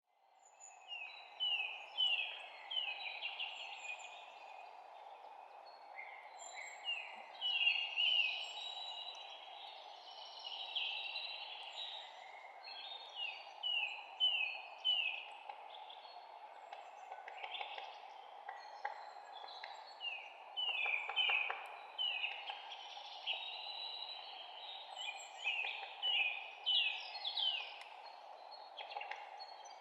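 Several songbirds chirping and singing, many short falling notes in quick runs, overlapping and continuing throughout. Underneath is a steady, even background rush.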